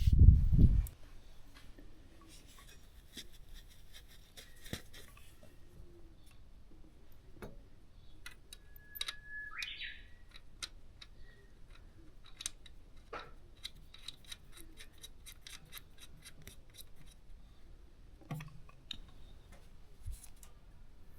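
Sparse light clicks and taps of small objects being handled, after a short low thump at the very start, with a brief squeak about nine seconds in.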